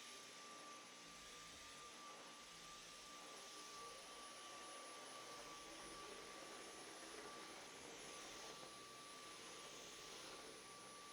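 Near silence: faint steady hiss with a thin, steady high tone running under it.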